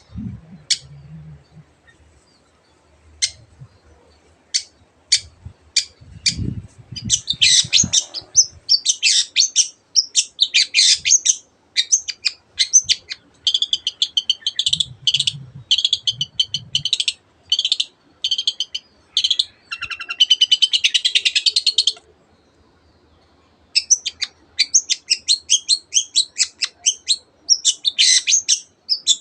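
Long-tailed shrike (cendet) singing: a few spaced sharp high notes, then from about a quarter of the way in a loud, fast, varied song with rapid trills, broken by a short pause near the end before it starts again.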